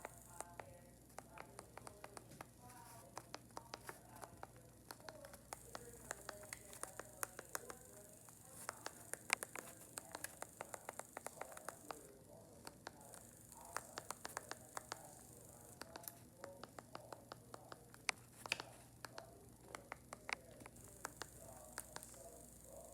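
Quiet, irregular light clicking or tapping, several times a second, over a faint murmur of voices.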